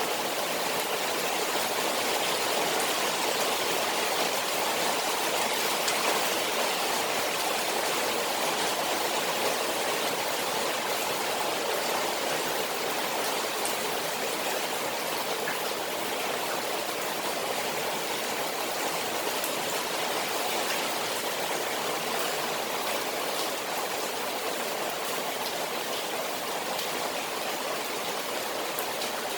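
Steady rain falling on a koi pond: an even, unbroken hiss of water with faint patter of drops hitting the surface.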